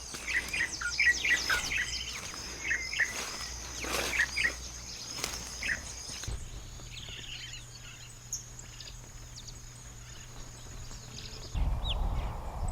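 Forest ambience: songbirds chirping in quick short calls over a steady high-pitched insect buzz. The chirping thins out about halfway through, and near the end a low rumbling noise comes in.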